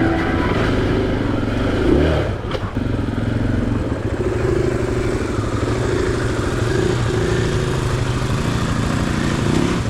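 Single-cylinder four-stroke 500cc-class enduro bike engine running at low revs over rough ground, with a short rev about two seconds in, followed by a few knocks.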